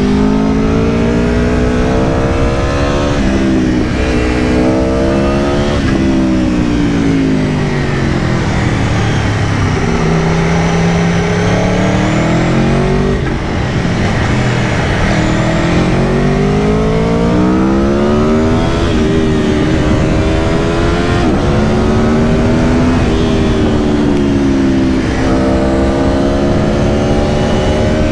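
2022 Aprilia Tuono V4 Factory's V4 engine under way, heard on board: revs climb and drop sharply at each upshift, fall away for a while as it slows, then pull up again through the gears.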